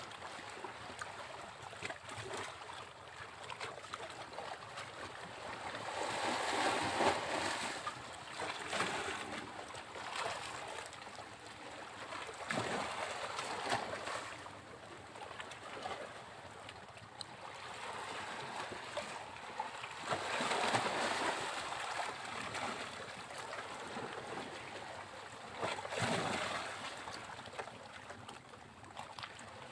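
Sea waves breaking on a beach, a continuous rush of surf that swells and fades every few seconds, with stronger breakers about 7, 13, 21 and 26 seconds in.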